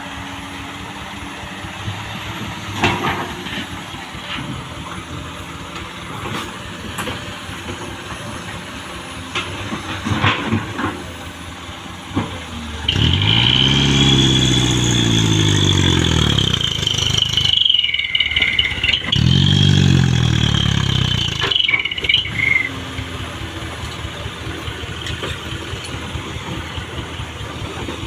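Diesel engine running steadily, then revved hard twice for a few seconds each, pitch rising and falling, with a high squeal over the first rev. It then settles back to idle near the end.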